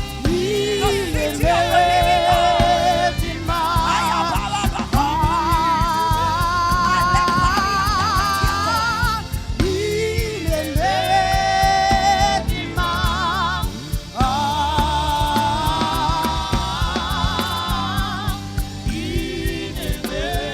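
Gospel worship music: a voice sings long, wavering sustained notes over a band with a steady beat.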